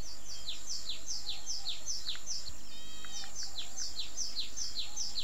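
Small birds chirping outdoors: a quick, even series of short falling chirps, about three a second, with a few brief clearer notes mixed in.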